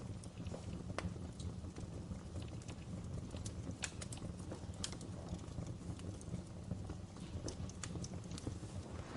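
Fireplace fire crackling: scattered sharp pops and clicks at irregular intervals over a steady low rumble.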